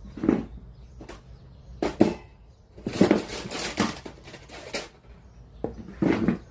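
Irregular clicks, knocks and rattles of small parts and tools being handled on a workbench during a radio cassette player repair, with a cluster of rattling around the middle.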